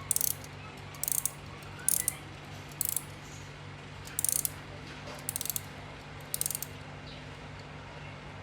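Antique Junghans clock movement's mainspring being wound with a key: seven short bursts of rapid ratchet clicks, about one a second, from the click and ratchet wheel.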